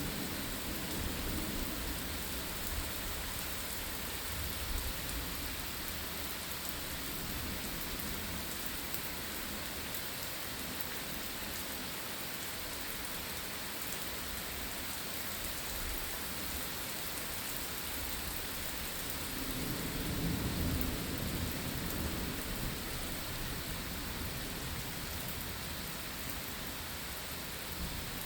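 Steady heavy rain, with low thunder rumbling at the start and again about two-thirds of the way through.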